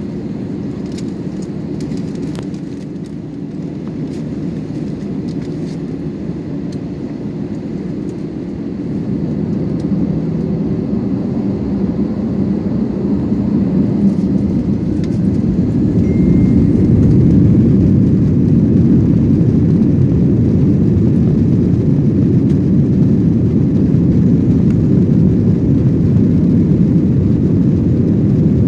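Airbus A321-200 cabin noise: a steady low rumble from the engines and airframe, growing louder over about ten seconds as the engines spool up, then holding steady and loud. A few faint clicks near the start.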